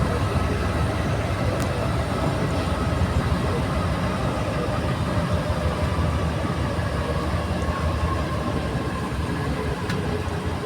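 Inside a Santiago Metro NS-93 rubber-tyred metro car running between stations: a steady rumble with faint tones from the running gear.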